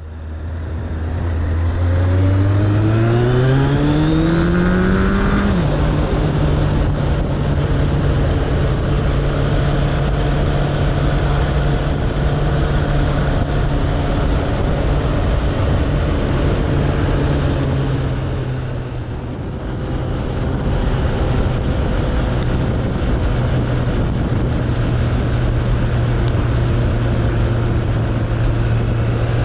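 Suzuki Bandit 1200's inline-four engine accelerating, its pitch climbing for about five seconds, then dropping at an upshift and running steadily at cruising speed. It eases off briefly about twenty seconds in, then picks up again, all over a constant rush of noise.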